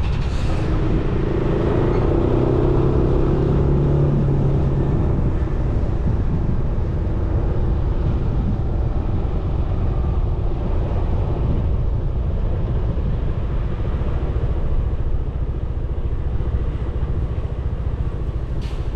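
Suzuki Burgman 400 scooter's single-cylinder engine running on the move, under steady rumbling wind and road noise; the engine's note stands out most in the first few seconds.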